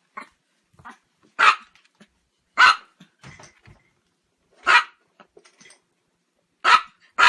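A dog barking in single loud barks, about five of them, spaced a second or two apart, with two close together near the end.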